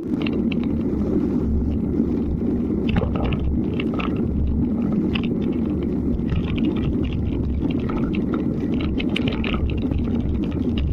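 Wind buffeting the microphone during a ride on a wet road in the rain: a steady low rumble with scattered light crackles.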